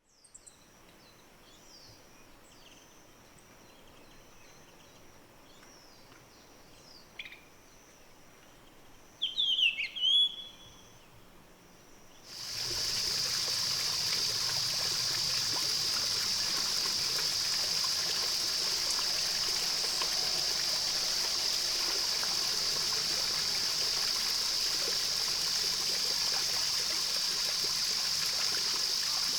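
Faint birdsong over a quiet background, with a short burst of loud, quick descending bird calls about ten seconds in. Then, a little after twelve seconds, the steady rushing of a flowing stream cuts in abruptly and carries on evenly.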